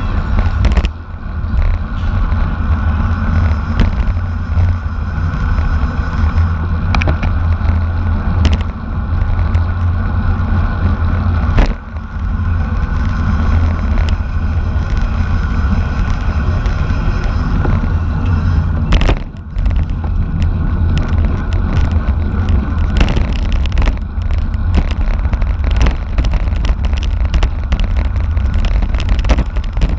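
Wind rush and road noise from a racing bicycle moving at speed: a loud, steady low rumble with scattered sharp clicks, dipping briefly about a second in, near twelve seconds and near nineteen seconds.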